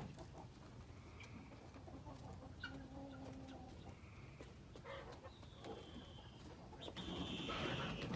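A pet bird pecking at seed: scattered small clicks. A few short, soft bird calls come in about halfway, and a louder one near the end.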